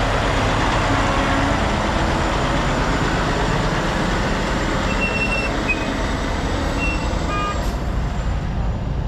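Large diesel truck engine running steadily close by, with a few short high tones about halfway through.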